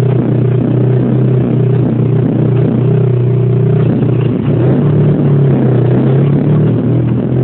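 Volkswagen Gol G4 engine heard from inside the cabin, running at steady revs under way; its pitch steps up about halfway through and drops back near the end.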